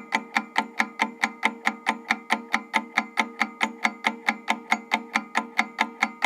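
Countdown-timer sound effect: a steady, clock-like ticking, about five ticks a second, over a steady tone.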